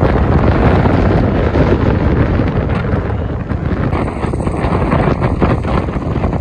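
Strong wind buffeting the microphone, a loud steady rumbling rush with no breaks.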